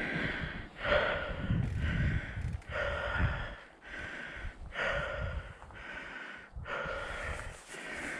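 A fat-bike rider breathing hard from pedalling, with loud, even breaths about every two seconds. A low rumble runs under the first three seconds or so.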